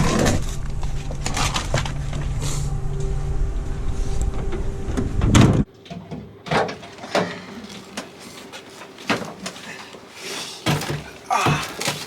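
Wind buffeting the microphone while skiing, cut off abruptly about halfway through; then a quieter stretch of scattered knocks and clicks.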